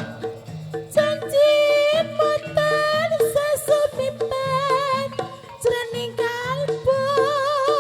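Live Javanese folk music accompanying a barongan dance: a band playing, with a high melody line wavering in strong vibrato over lower notes that step from one steady pitch to the next.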